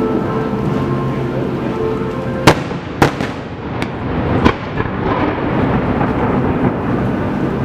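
Fireworks shells bursting: a steady rumble of booms with several sharp cracks, the loudest about two and a half and three seconds in, and two more around four and four and a half seconds in.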